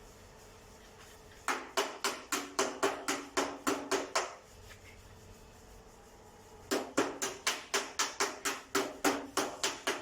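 Hammer blows in two quick runs of about five strikes a second, each strike with a short ringing tone.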